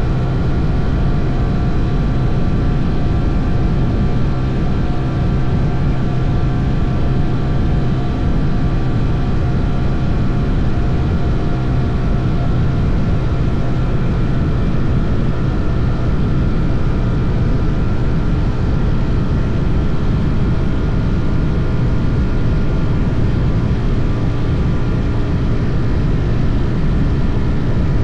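Motorcycle engine running at a steady speed, a constant even drone with a dense rushing noise under it and no change in pitch.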